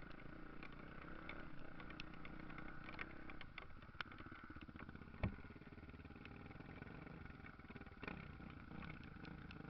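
Faint motocross motorcycle engines running at a distance, with scattered small clicks and one sharp knock about five seconds in.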